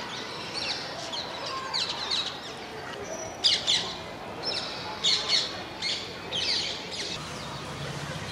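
A flock of parrots calling: many short, shrill calls that drop in pitch, overlapping in clusters, with the loudest bunches about three and a half and five seconds in.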